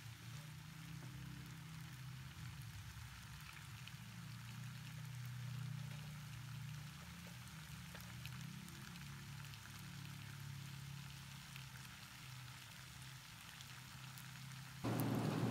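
Faint sizzling and crackling of wontons, bean sprouts and greens stir-frying in sauce in a pan, with scattered light ticks, over a low steady hum. The noise gets louder just before the end.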